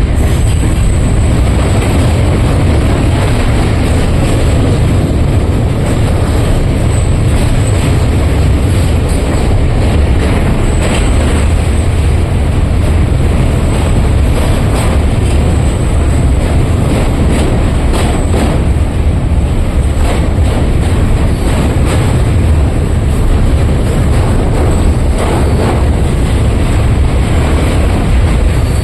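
Train running on rail track, a loud steady rumble with faint clicks from the wheels over the rails.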